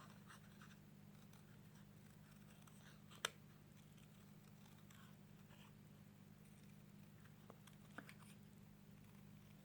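Faint snips of small scissors hand-cutting card stock, with one sharper click about a third of the way in and another near the end, over a steady low hum.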